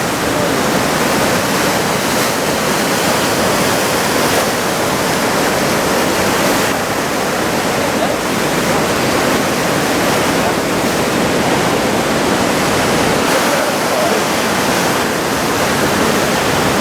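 Heavy ocean surf from a typhoon swell breaking on the shore: a loud, steady rushing wash of noise without let-up.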